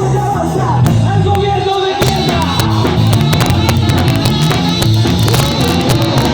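Live ska band playing a song, with a steady bass line and a busier, brighter beat starting about two seconds in.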